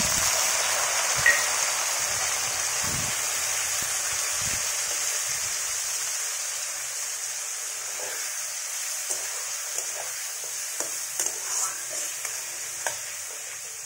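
Chopped tomatoes sizzling loudly in hot oil in a metal kadai, the sizzle easing off gradually. From about eight seconds in, a spatula stirs them, scraping the pan with light clicks.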